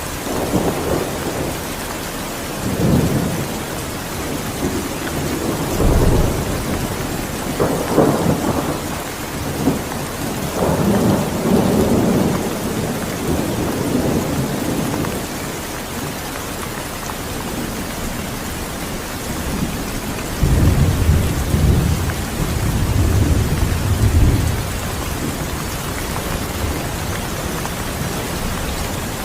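Steady heavy rain falling, with low rolls of thunder swelling and fading several times, the longest and deepest about two-thirds of the way through.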